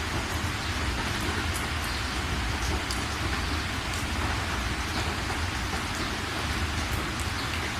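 Steady rain falling, a dense even hiss with scattered individual drips ticking through it, over a low rumble.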